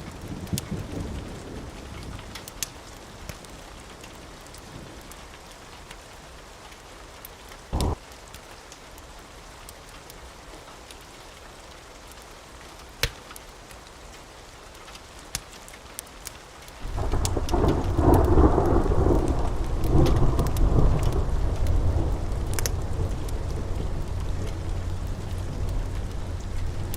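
Steady rain with a few sharp pops, then about two-thirds of the way in a sudden loud roll of thunder that swells for a few seconds and rumbles on, slowly easing.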